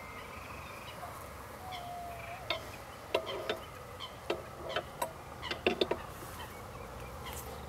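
Birds calling: a quick run of short, sharp calls between about two and a half and six seconds in, with one short gliding note a little before, over a steady low background hum.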